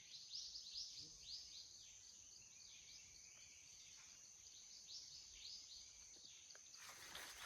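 Faint forest ambience: small birds chirping in quick, high notes that sweep down in pitch, over a steady high insect whine.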